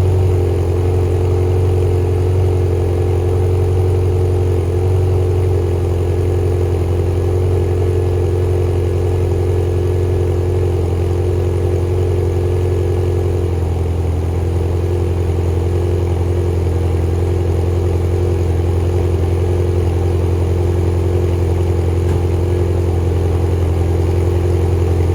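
Ferrari 348 TB's V8 engine idling steadily while still cold, about a minute after a cold start, with slight shifts in its note about 5 and 13 seconds in.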